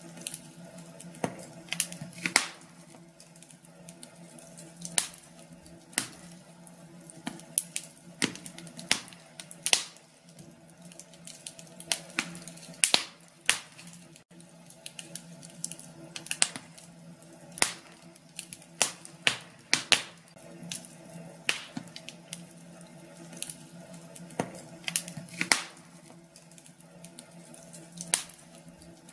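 Wood fire in a fireplace crackling, with irregular sharp pops and snaps a few times a second over a faint steady low hum.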